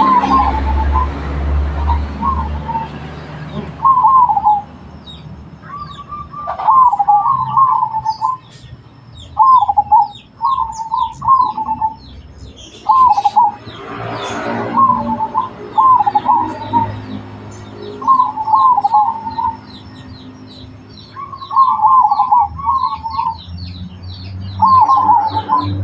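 Zebra dove (perkutut) cooing, with about a dozen short, bubbling phrases repeated every second or two. Faint high chirps of small birds sound behind it, and brief rushes of noise come at the start and about halfway.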